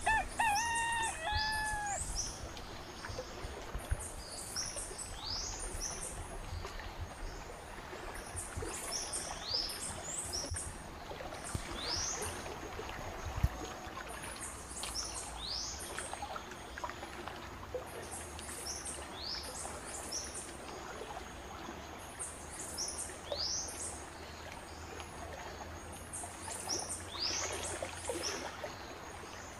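Birds chirping: short high chirps that sweep upward, repeated in clusters throughout, with a lower call of a few notes at the very start. A faint low rumble runs underneath.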